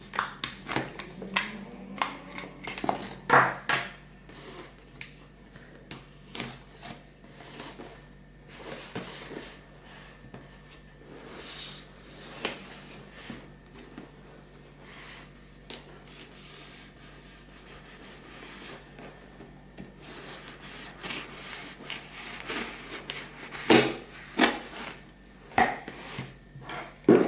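Hands opening a shipping parcel: irregular rubbing, scraping and rustling with short knocks and clicks as the packaging is handled, busier near the start and again near the end.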